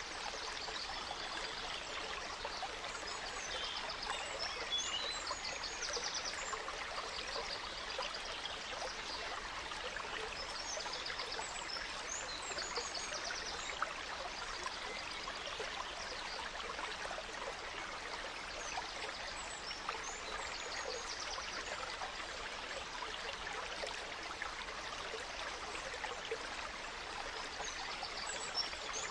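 Gentle stream running steadily, with a songbird singing short, high trilled phrases over it every several seconds.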